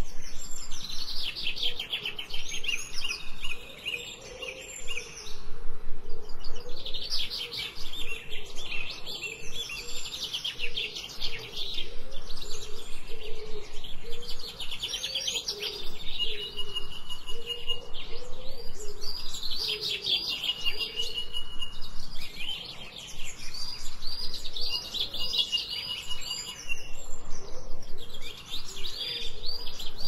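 Songbirds singing in repeated phrases of rapid, high trilled chirps, each lasting a few seconds with short pauses between. A softer, low wavering call runs underneath.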